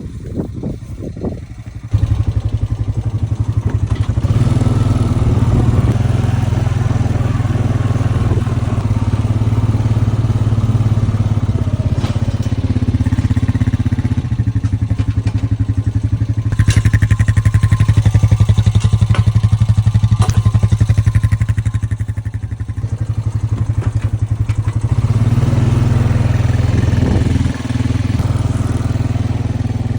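A small vehicle engine running steadily under way, loud from about two seconds in and easing briefly twice in the second half.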